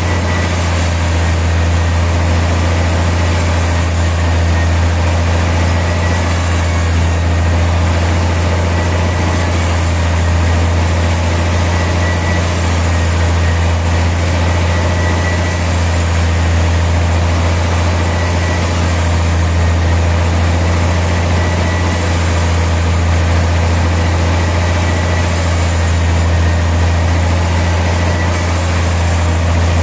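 Heavy engine running steadily at an even, unchanging low hum, with no cutting or impacts heard.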